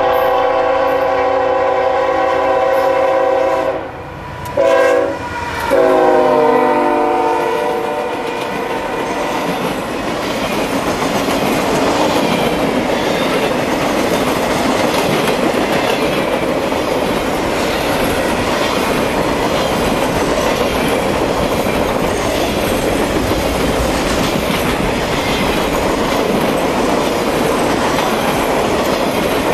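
The horn of EMD SD70ACe locomotive NS #8100 sounds a long chord, then a short blast, then a final blast that drops in pitch as the locomotive passes. After that comes the steady rolling of a long string of Triple Crown RoadRailer trailers going by on the rails.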